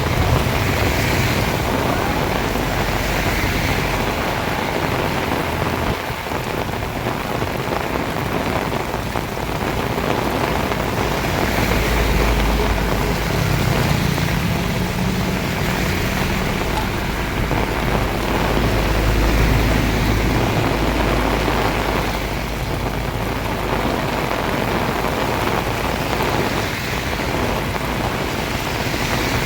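Heavy rain pouring steadily, with low rumbling swells near the start and again from about twelve to twenty-one seconds in.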